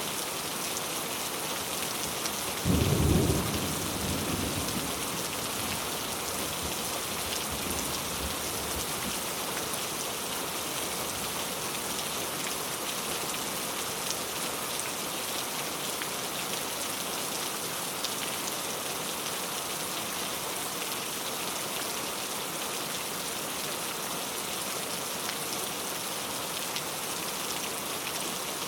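Steady rain falling, with one loud clap of thunder about three seconds in that rumbles away over the next few seconds.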